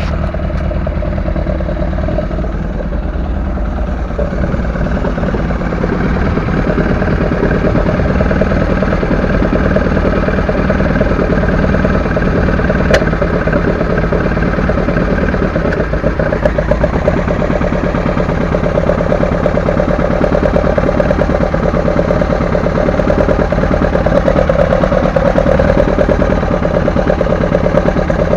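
Volkswagen Golf Mk1's 2.0 8-valve four-cylinder on Weber 40DCOE carburettors, breathing through a Supersprint exhaust with 4-2-1 headers, running steadily at idle and getting a little louder a few seconds in.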